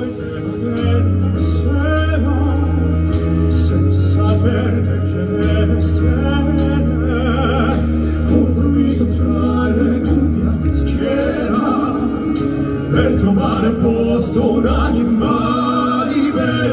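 Male classical-crossover vocal group singing an operatic pop ballad in Italian with vibrato, over a backing band with steady bass and drums.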